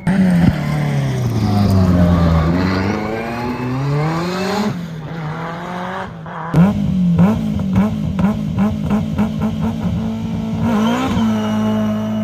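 Historic rally car engines at full racing volume: one engine drops in revs, then climbs again through the gears. After a break, an engine pulses rapidly and rhythmically, about five times a second, before settling on a steady held note near the end.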